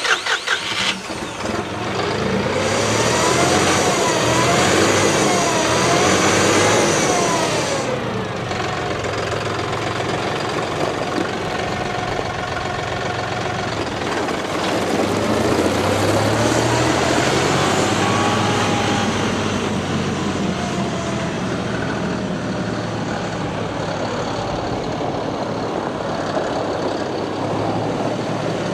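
John Deere 5045E's turbocharged three-cylinder diesel engine running, its pitch rising and falling as the throttle is opened and eased off several times.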